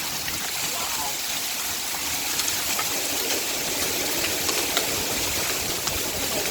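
Heavy rain and hail pouring down in a severe thunderstorm: a steady hissing downpour with occasional sharp ticks of hailstones striking.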